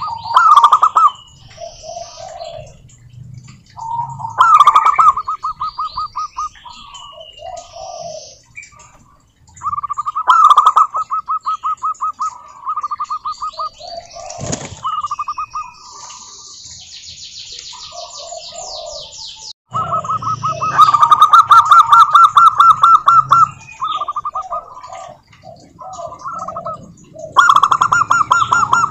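Zebra doves cooing: several phrases of rapid staccato coo notes, each lasting two to three seconds, with higher chirps from other small birds between the phrases.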